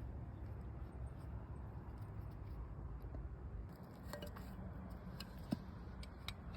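Faint, steady low background rumble, with a few light clicks and taps in the second half.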